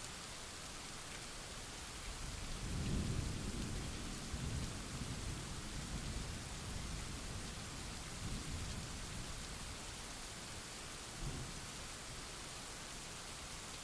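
Steady rain hissing, with a low rolling thunder rumble that builds about two seconds in, peaks soon after and fades away over several seconds, then a brief fainter rumble near the end.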